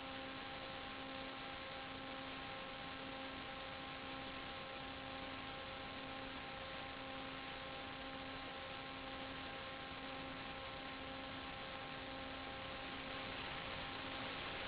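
A steady hum of several even tones over a constant hiss, with the lowest tone swelling and fading about once a second.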